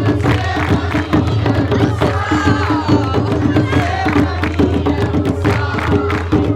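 Hand drums beating a fast, steady jongo rhythm while a group of voices sings along.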